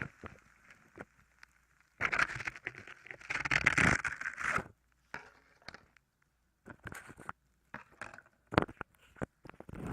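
Ear candles being handled right at a microphone's ears: two loud bursts of scraping and crackling a few seconds in, then scattered crackles and taps.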